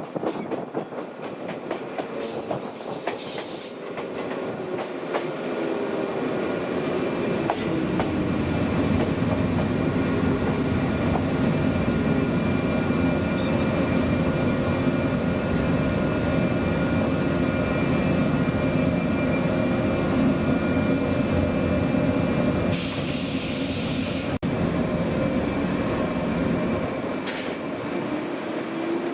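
Old JNR-type electric train running on the rails, with a steady rumble and a motor whine that glides in pitch. The sound grows louder over the first several seconds, and a short hiss comes near the end.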